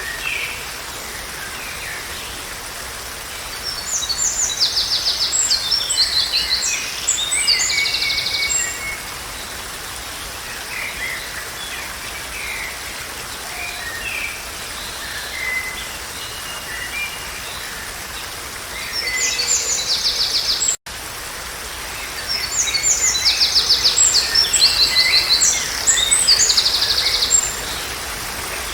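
Songbirds singing: two long bouts of fast, high trilling phrases a few seconds each, with scattered shorter calls between them, over a steady rushing background. The sound cuts out for an instant about two-thirds of the way through.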